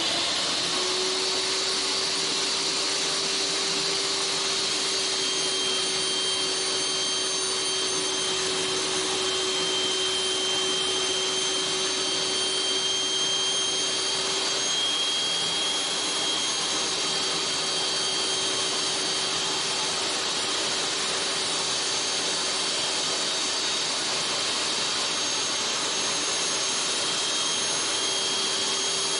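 Electric power saw running steadily at full speed while cutting a fireclay (chamotte) board, a soft material that the blade goes through easily, like butter. It has a steady motor hum with a high whine over it.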